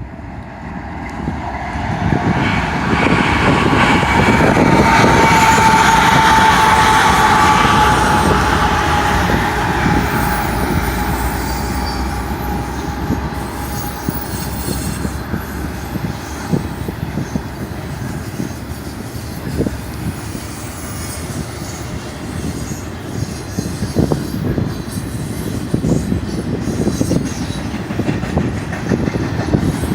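BNSF freight train passing: the GE diesel locomotives go by first, loudest a few seconds in, with a high tone that slides slightly lower as they pass. Then the intermodal spine cars roll past in a steady rumble with frequent clicks from the wheels.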